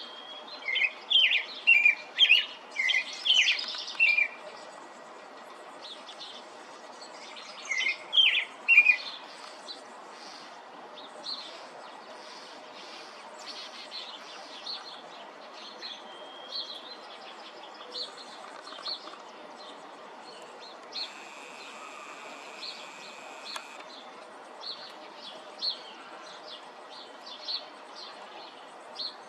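Robin singing: two loud bursts of quick, varied warbling phrases near the start and again about eight seconds in, then fainter scattered chirps over a steady background hiss.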